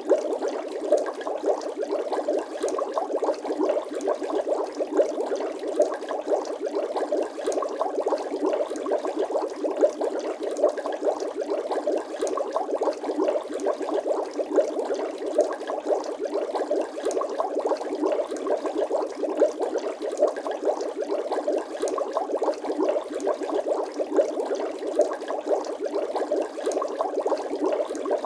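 Bubbling sound effect: a steady, dense stream of small liquid pops and gurgles, like water bubbling.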